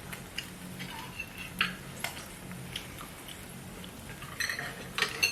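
Scattered light clicks and taps of chopsticks against dishes and the grill pan during a pork-belly meal, over a faint steady low hum.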